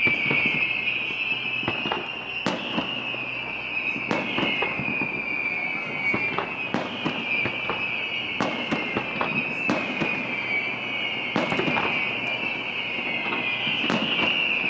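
Fireworks display: shells bursting in a steady series of bangs every second or two, over a continuous high whistling that keeps sliding down in pitch.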